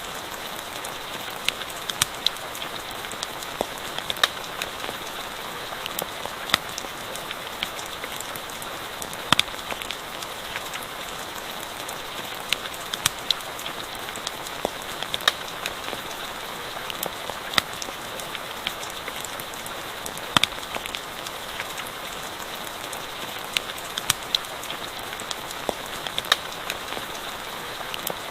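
Steady rain falling, with sharp crackles and pops of a campfire scattered irregularly through it.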